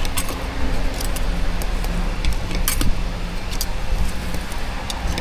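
Sharp metallic clinks of cooking utensils at a street-food griddle, about one a second, over a steady low hum.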